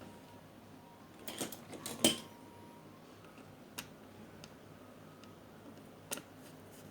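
Light clicks and clatter of small hard objects being handled, a cluster of them about one to two seconds in, then a single click near the middle and another near the end.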